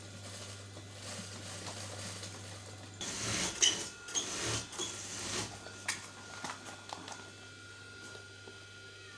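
Industrial sewing machine in a workshop: a steady motor hum, then about three seconds in a few seconds of clattering stitching runs with sharp clicks, before it settles back to a quieter hum.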